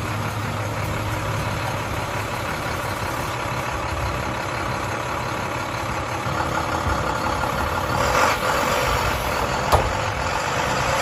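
Heavy forestry machine's diesel engine running steadily under load, growing somewhat louder about six seconds in, with a sharp knock near the end.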